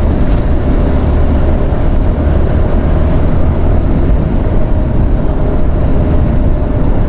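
Steady wind rush over the rider's microphone at road speed on a Yamaha R15 V4, with the motorcycle's single-cylinder engine running at a steady pitch underneath.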